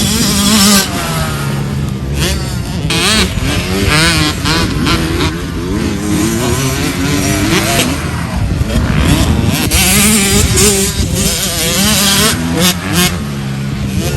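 Several motocross bikes running on the track, their engines revving up and down in pitch as they accelerate and back off.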